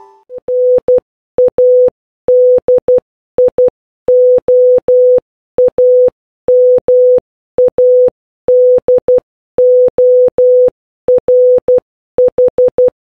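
Morse code sent as a single beep tone at one steady pitch, keyed in groups of short dots and longer dashes with gaps between characters.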